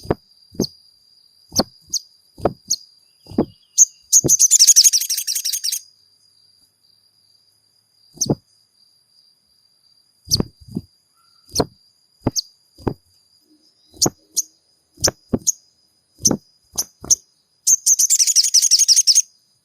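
Sogon bird calling: a series of short, sharp single call notes at irregular intervals, with a rapid chattering trill about four seconds in and another near the end. A faint steady high tone runs underneath.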